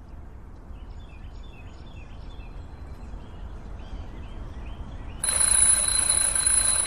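Quiet outdoor ambience: a steady low hiss with faint, short high chirps. About five seconds in it switches suddenly to a louder, noisier outdoor ambience with a steady high-pitched whine.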